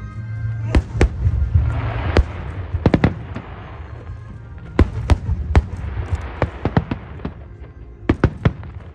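Fireworks display: aerial shells bursting in clusters of sharp bangs, with swells of crackling between them, over music playing underneath.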